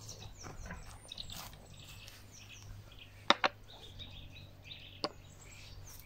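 Small birds chirping, many short high chirps throughout. About three seconds in, two sharp knocks come close together, and another single knock follows about five seconds in.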